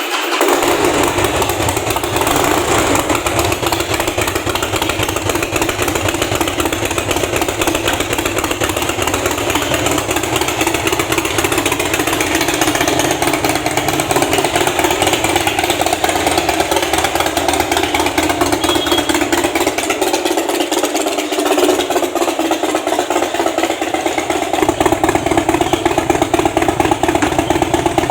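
Harley-Davidson Fat Boy's 96 cubic inch Twin Cam V-twin running through its exhaust, a steady engine note that grows a little louder and deeper near the end.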